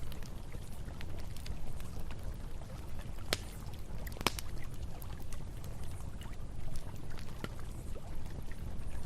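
Campfire crackling with scattered sharp pops, the two loudest a second apart near the middle, over the steady low rush of flowing river water.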